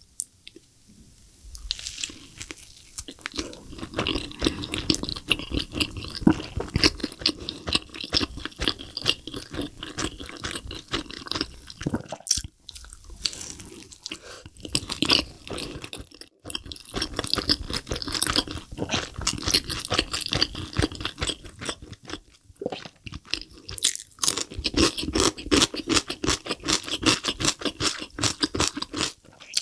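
Close-miked chewing and biting of a double cheeseburger dipped in cheese sauce: a dense, steady run of wet mouth clicks and smacks, broken by brief pauses about 12 and 16 seconds in.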